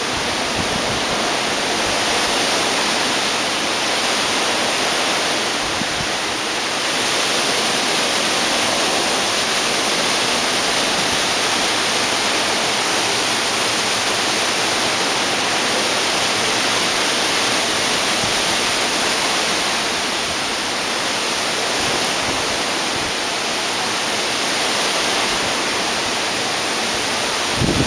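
Hurricane wind rushing through trees in a storm, a steady hiss that swells a little in gusts.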